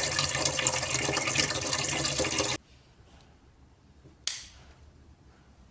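Kitchen tap running in a steady stream, shut off suddenly a little under halfway through, followed by a single sharp click.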